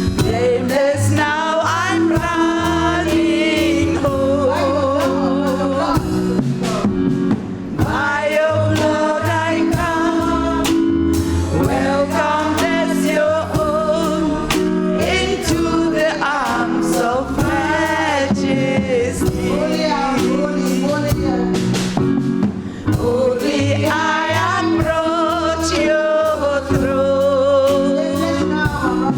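Live gospel music: sung vocals with vibrato over bass, keyboard and a steady drum beat.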